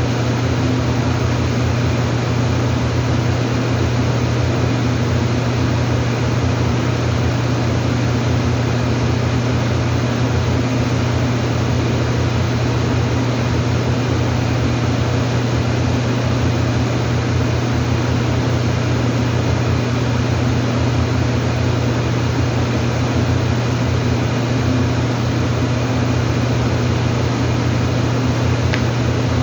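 A steady, loud machine drone with a strong low hum, unchanging throughout.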